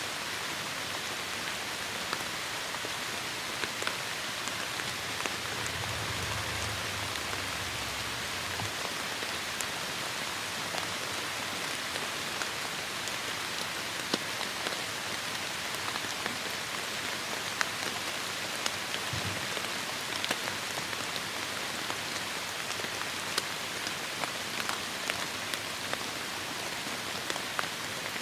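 Heavy rain falling steadily, with many individual drops ticking sharply on a surface. A brief low rumble comes about six seconds in.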